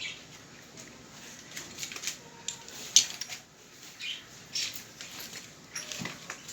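Rummaging and handling of objects: scattered light clicks, rustles and knocks, with one sharp click about three seconds in.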